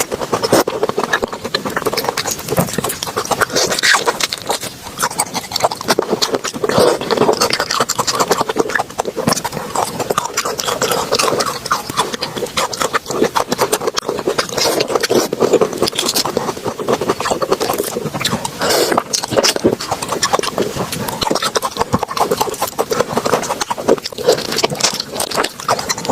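Close-miked chewing and wet mouth sounds of someone eating raw shrimp, with a dense run of small clicks and smacks.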